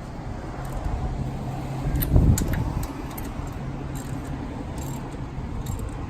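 Metal hand tools clinking and knocking against car parts, with a louder low thump about two seconds in and a steady low hum in the background.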